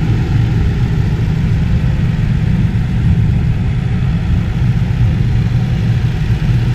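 Range Rover's supercharged 5.0-litre V8 idling steadily under the open hood, a constant low running sound.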